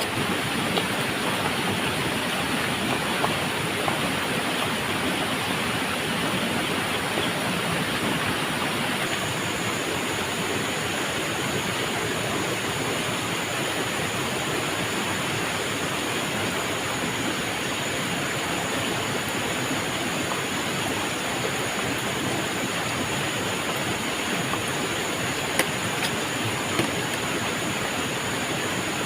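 Steady rushing noise of water, even throughout, with a thin high steady whine joining about nine seconds in and a few light clicks.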